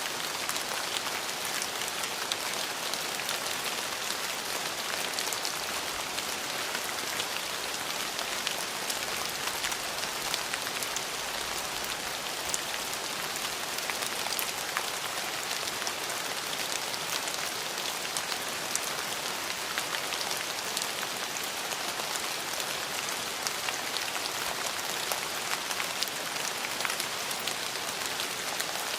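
Steady rain falling, a continuous even hiss dotted with many small, sharp drop ticks.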